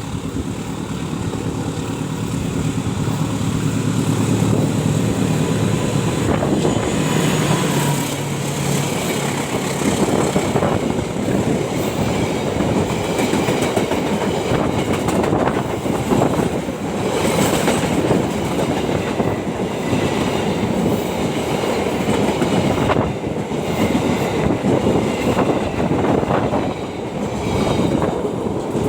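Jayakarta passenger train passing on the rails: a diesel locomotive's engine hum for the first eight seconds or so, then the carriages' steady rumble with wheels clattering over the track.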